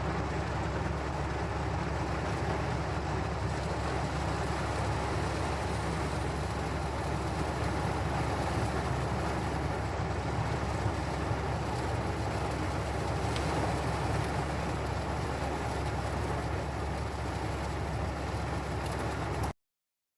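Steady low rumbling noise inside a car stopped in traffic during a thunderstorm, with no distinct claps or bursts. It cuts off suddenly near the end.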